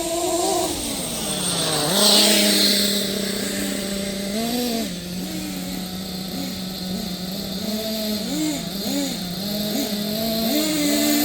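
Small two-stroke nitro glow engines of radio-controlled monster trucks (an O.S. .30 VG and a Kyosho KE .25) running. The pitch drops to a steady low idle about a second in, with a loud rush of noise around two seconds in. Short throttle blips come several times and the revs rise again near the end.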